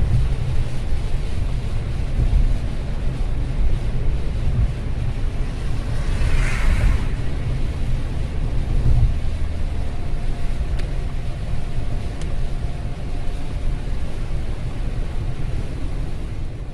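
Steady road noise of a car driving in light rain on a wet road, heard from inside the cabin: a deep rumble under an even hiss. About six seconds in, a brief whoosh swells and fades.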